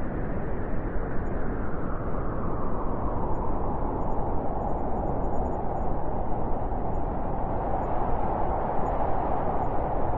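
Blizzard wind blowing steadily as a deep rushing noise, with a howling note that grows stronger in the second half.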